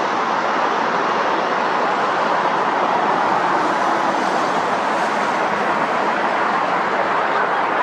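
Jet airliner engines making a steady, even rushing noise with no change in pitch.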